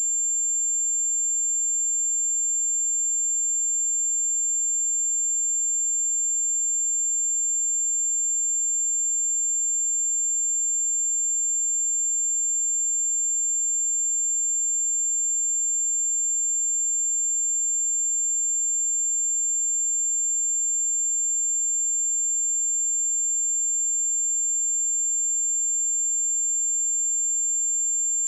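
A steady, unbroken 7316 Hz sine-wave test tone: one high-pitched pure whistle-like tone held at constant pitch and level.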